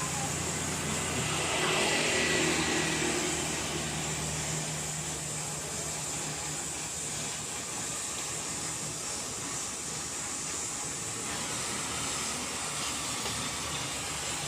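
Steady low mechanical hum with a constant hiss, and a swell that rises and falls about two seconds in.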